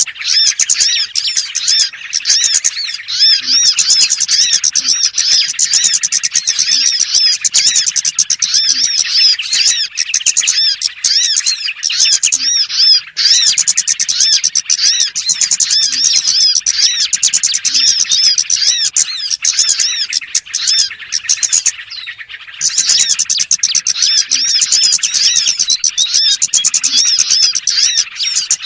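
Small songbirds chirping rapidly and densely, a lure recording used by bird catchers to attract small birds. The chatter runs almost unbroken, with a few short breaks.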